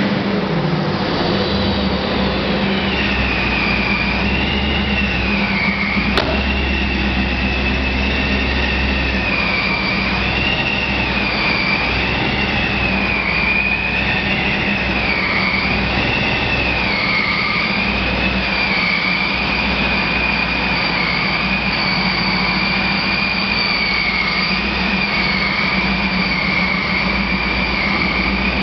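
Supercharged 350 V8 of a 1989 Pontiac Formula running steadily without revving, with a high whine above the engine note that wavers up and down in pitch every couple of seconds. A single short click about six seconds in.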